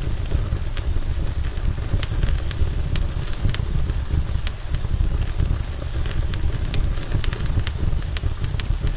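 Campfire crackling, with frequent sharp pops of burning wood scattered at irregular intervals over a steady low rumble.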